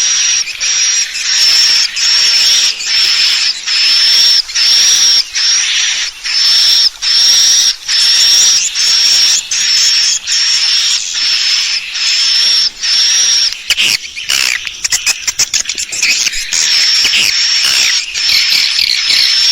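Swiftlet lure-call recording: edible-nest swiftlets' high, buzzy twittering calls repeated about every three quarters of a second. About two-thirds through, a burst of rapid clicks and short chirps breaks in before the calls resume.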